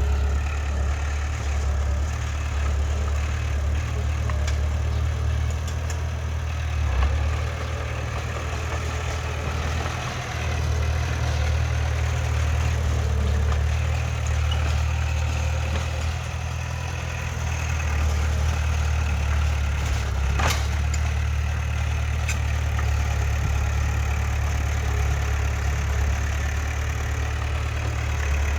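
Heavy earthmoving machine's diesel engine running steadily with a strong low hum. One sharp metallic click or clank about two-thirds of the way through.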